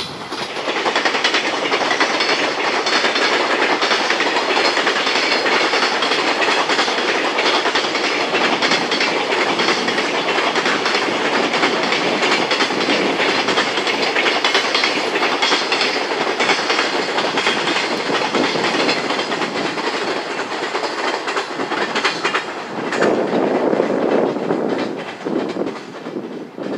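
Container freight train's wagons running along the track: a steady rumble with a fast clatter of wheels over the rails.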